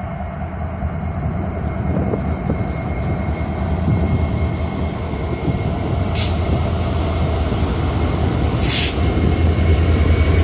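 Slow-moving Norfolk Southern coal train rolling past: a steady low diesel-and-wheel rumble with a thin, high wheel squeal, growing louder toward the end. Two short hisses come about six and nine seconds in.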